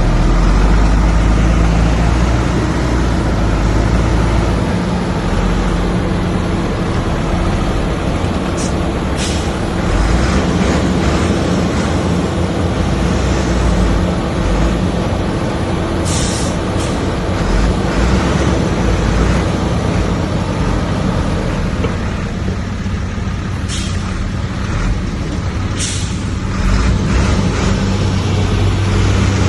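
Heavy diesel earthmoving machinery running steadily under load, with several short sharp hisses.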